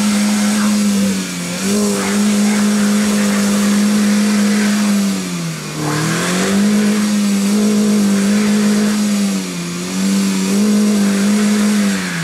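Toyota Calya's engine revved hard and held at high revs, sagging briefly and climbing back three times. The front-wheel-drive car is stuck in deep mud and labouring to pull free.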